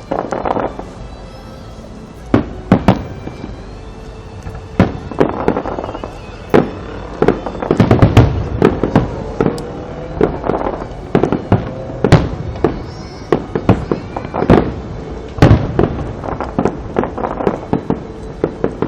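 Fireworks display shells bursting one after another: many sharp bangs, coming thickest from about eight seconds in, with crackling between them.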